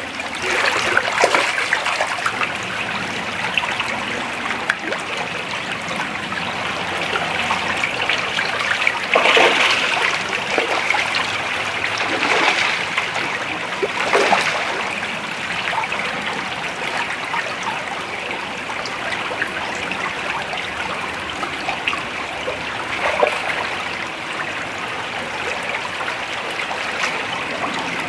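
Creek water flowing and trickling over rocks in a steady rush, with a few brief louder splashes about nine, twelve and fourteen seconds in.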